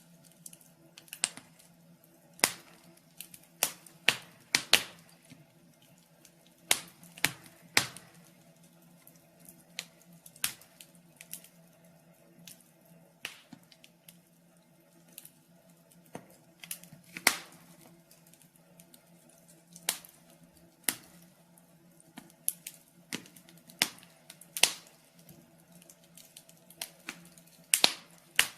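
Wood fire crackling in a fireplace: irregular sharp pops and snaps of burning logs, a few a second, some much louder than others.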